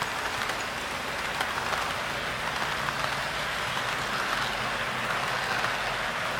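HO-scale model train, a model EF58 electric locomotive hauling parcel cars, running along the track: a steady rolling hum of the motor and metal wheels on the rails, with faint small clicks.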